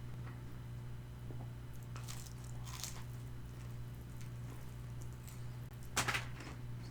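Close-up crunchy bites and chewing of crispy Korean fried chicken, a few separate crunches with the loudest near the end, over a steady low hum.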